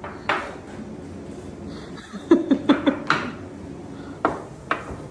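Dishes and utensils clinking and knocking against each other: one clink about a third of a second in, a quick run of about five knocks in the middle, then two more near the end.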